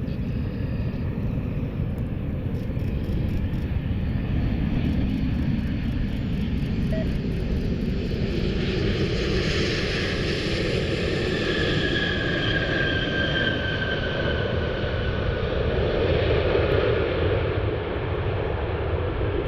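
Jet airliner passing by: a steady engine rumble, with a high engine whine that slides down in pitch in the middle as the aircraft goes past.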